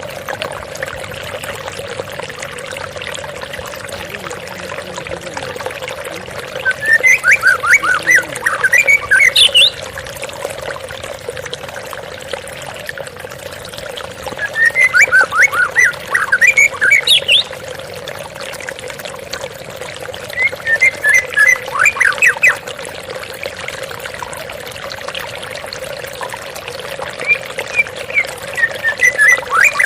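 Steady rush of falling water from a waterfall and stream, with a white-rumped shama (murai batu) singing four phrases of quick notes, spaced several seconds apart.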